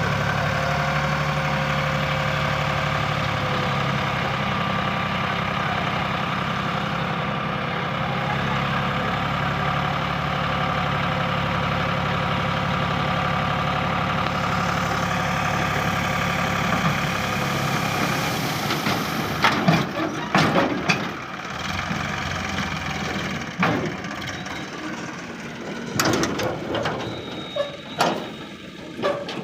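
Diesel engine of heavy farm or earthmoving machinery running steadily, then a run of sharp, irregular knocks over a quieter engine sound in the last third.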